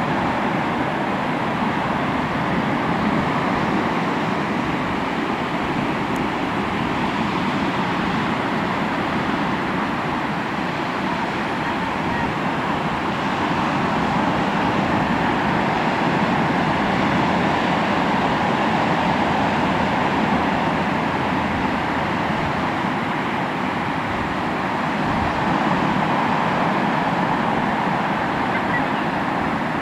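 Sea waves washing onto the shore in a continuous rush of surf, swelling and easing gently every several seconds.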